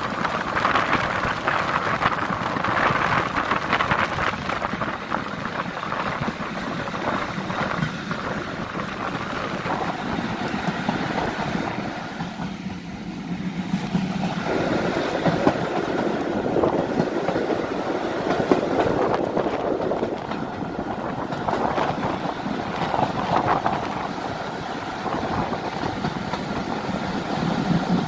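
Steam-hauled passenger carriages running at speed on the rails, heard from an open carriage window: a steady rush of wheel-on-rail noise and passing air. It goes quieter for a couple of seconds about halfway through.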